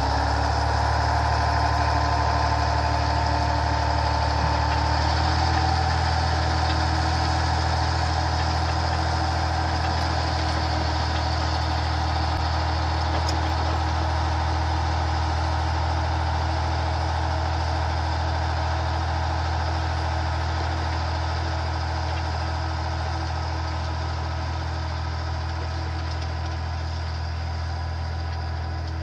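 A truck engine running steadily, its pitch stepping up slightly about five seconds in, then easing a little quieter toward the end.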